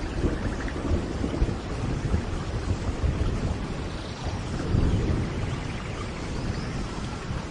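Steady rain with low rolling thunder, the rumble swelling about five seconds in.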